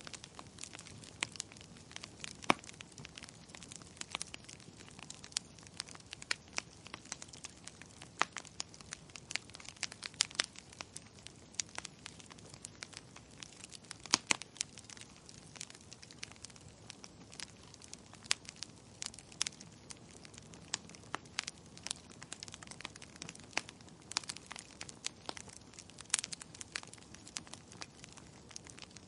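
Wood fire crackling in a fireplace: irregular sharp pops and snaps, several a second and a few much louder, over a steady soft hiss.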